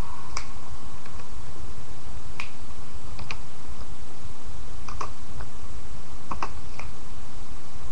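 A few scattered light clicks, nine or so spread unevenly over several seconds, over a steady low hum and hiss of webcam microphone noise.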